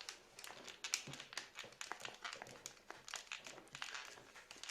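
Plastic joints of SteelSeries Siberia V2 headphones creaking in many quick, irregular little clicks as the headset is worked. The hinges have been greased with silicone, but the other joints still creak faintly.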